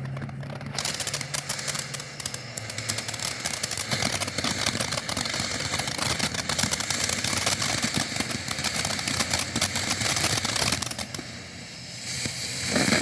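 Showtime Fireworks 'Shazam' consumer firework crackling and spraying with a dense, rapid run of crackles. The crackling dies down about eleven seconds in and starts up again near the end.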